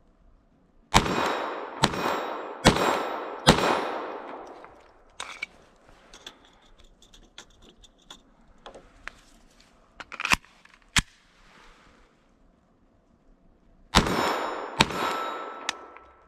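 Glock 44 .22 LR pistol firing: four shots in quick succession, then a pause broken by two sharp metallic clicks, then two more shots near the end. The pistol then stops with a spent case left unejected in it.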